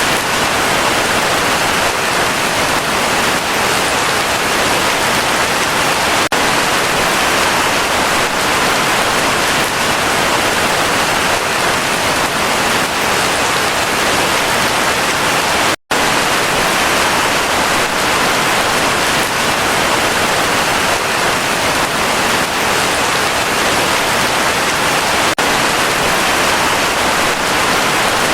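Heavy rain falling steadily, a dense even hiss. It cuts out completely for an instant a little past halfway, then carries on unchanged.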